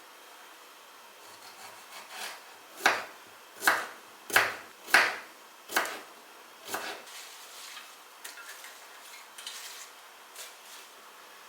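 A series of scraping strokes, about six of them roughly one every 0.7 s, followed by softer scattered rustling and scraping.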